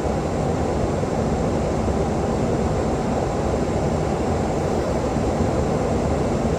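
Steady rushing noise of airflow and engines heard from inside a Boeing 737-800 in flight, even and unbroken, with most of its weight low.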